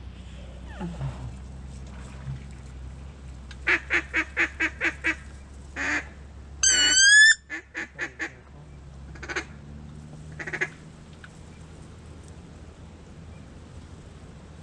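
Duck quacking: a run of about seven quacks, then one loud wavering goose-like honk about halfway through, then a few scattered quacks, over a faint steady low hum.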